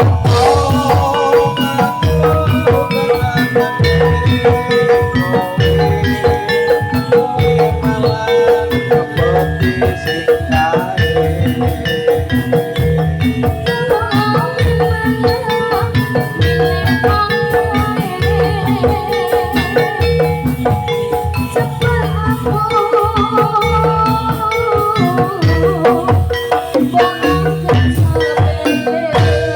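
Jathilan gamelan accompaniment music played loudly through a sound system: a melody of struck metal keys and gongs over a steady drum beat, with one note held throughout.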